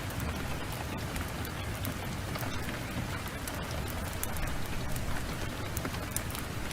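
Heavy downpour of rain, a steady hiss, mixed with a wood fire crackling in a fireplace and giving occasional sharp pops.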